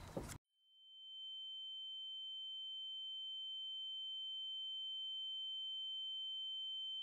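The outdoor sound cuts off abruptly just under half a second in, and a steady, high-pitched electronic tone fades in over about a second and holds unchanged, with fainter steady tones above and below it.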